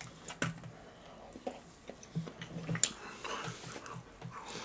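Quiet close-miked eating sounds: a biscuit being chewed, with soft mouth clicks and a few small ticks.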